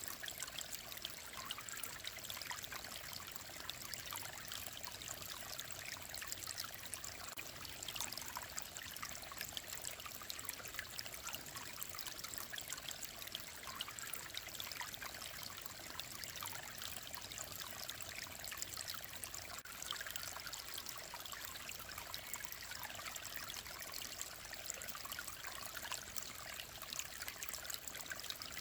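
Mountain stream flowing and trickling steadily, an even splashing hiss with no breaks.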